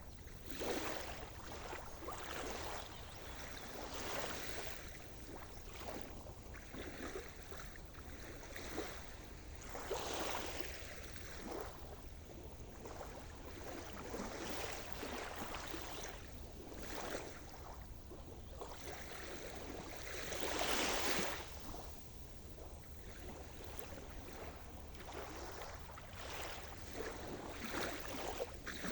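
Sea surf: waves washing in and breaking one after another, each swell rising and falling every few seconds, the biggest about two-thirds of the way through.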